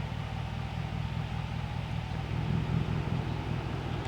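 Vehicle engine running, heard from inside the cab: a steady low rumble with an even pulse.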